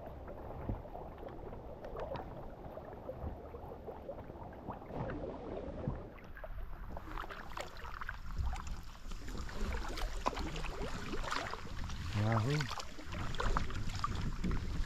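Water splashing and dripping around a kayak being paddled down a flowing river, with a shout of "wahoo" near the end.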